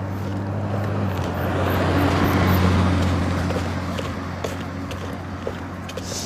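A car driving past, its tyre and engine noise swelling to a peak about two and a half seconds in and then fading away.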